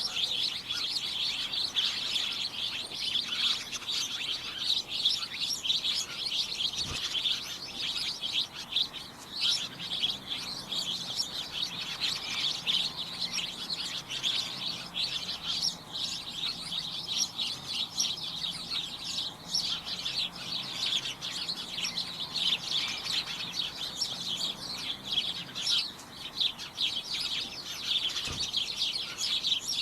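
A group of small birds chirping continuously, a dense tangle of many short, high, overlapping chirps with no pause.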